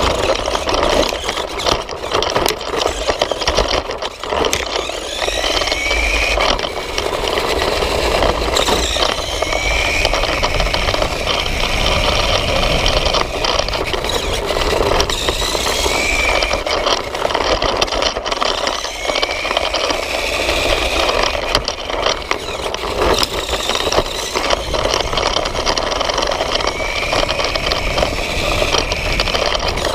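Nikko toy RC motorcycle's electric motor and gears whining, rising in pitch each time it speeds up, about five times, over a continuous rattle and scrape from the small chassis and tyres on the ground.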